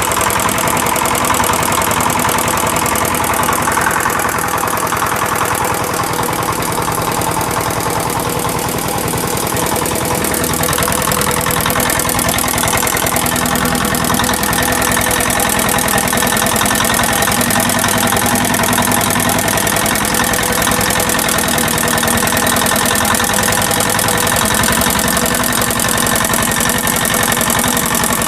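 Reconditioned EM175 5 hp single-cylinder diesel engine running steadily, with a fast, even firing beat and no change in speed.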